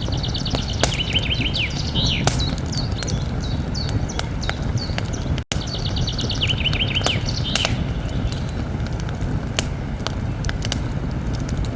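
Campfire crackling, with frequent sharp pops and snaps over a steady low rumble. A small songbird sings a quick descending trill twice, near the start and again past the middle. The sound cuts out for an instant about five and a half seconds in.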